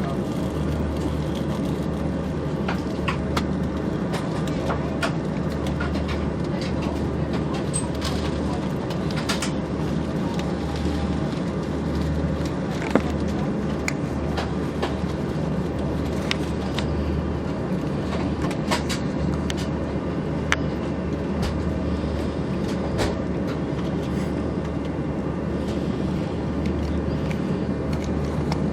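Steady background noise inside the cabin of a parked Airbus A340-600: a constant hiss with a low hum that swells about every two seconds, and scattered light clicks and knocks.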